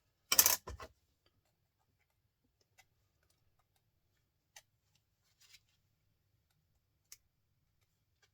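A short scrape and clatter about half a second in, then a few sparse, light clicks as a small file pries at a scrap part.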